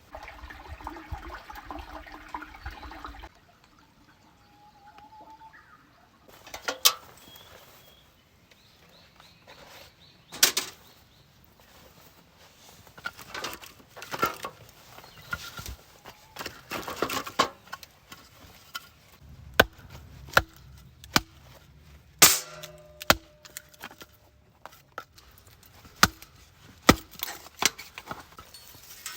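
Irregular sharp knocks and clanks, a dozen or more, some of them loud: camp gear being handled. A steadier pitched sound fills the first few seconds.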